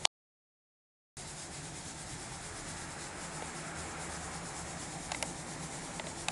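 Steady indoor room noise with a faint low hum, broken right at the start by a sharp click and about a second of dead silence, then resuming with a few faint clicks near the end.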